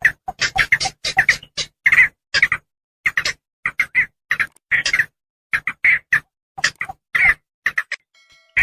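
Javan pond heron calls from a bird-lure recording: a rapid run of short, harsh squawks, several a second, with a brief pause near the end.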